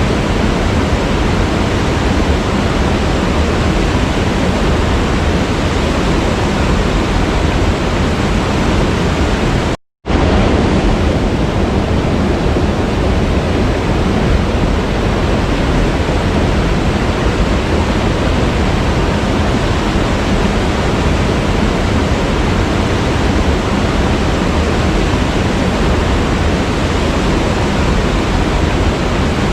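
Waterfall, water falling and rushing in a steady, dense roar of noise; it cuts out to silence for a moment about ten seconds in and then carries on unchanged.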